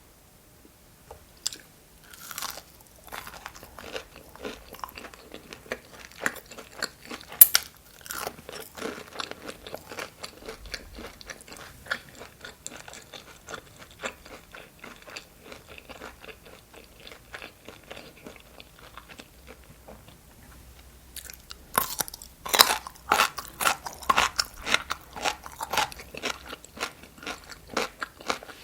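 Close-miked crunchy bites and chewing as chicken nuggets and pickles are eaten. Wet, crackly chewing starts about two seconds in, eases off about two-thirds of the way through, then comes back as a louder run of crunching near the end.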